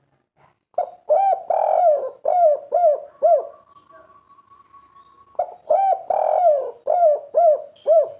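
Spotted dove cooing: two phrases of about six short, repeated coos each, a couple of seconds apart. A faint steady tone is heard in the gap between them.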